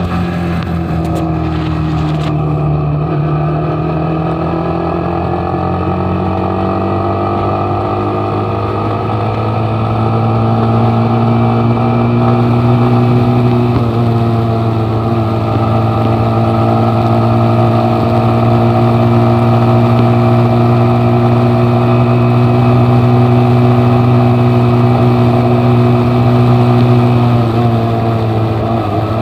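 Motorcycle engine running under way. Its pitch dips a few seconds in, climbs, holds steady at cruising speed for most of the stretch, and eases off near the end.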